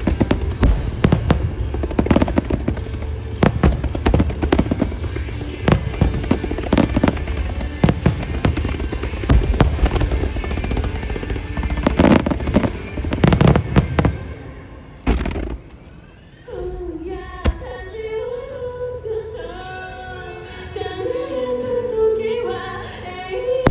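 Fireworks shells bursting in rapid succession, many sharp bangs and deep booms, over loud music played for the synchronised show. About fifteen seconds in the bursts stop and the music carries on alone with a sung or played melody.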